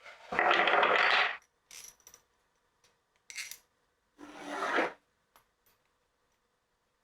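Two short scrapes of something rubbed or drawn against a hard surface, each about a second long, the first the loudest and the second rising as it goes, with a few light clicks between them.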